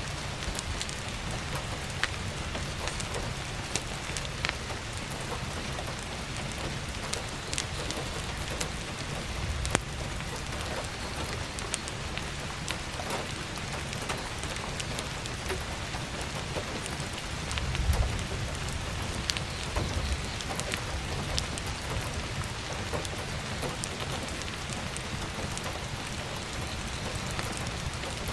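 Heavy rain falling steadily, with scattered sharp crackles of burning firewood and a brief low rumble about two-thirds of the way through.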